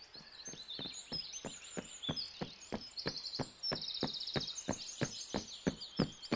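Footstep sound effect of a cartoon character walking: short, even taps about three or four a second, growing louder, over a background of birds chirping.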